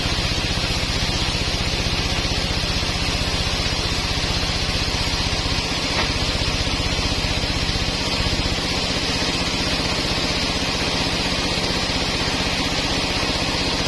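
A sawmill's engine running steadily at an even speed, with a low hum and a steady hiss above it.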